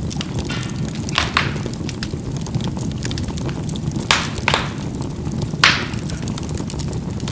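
Charcoal burning in a fireplace: a steady low rumble of flame with fine crackling, and a few sharp pops as the charcoal bursts, about a second in, twice around four seconds in, and loudest at about five and a half seconds.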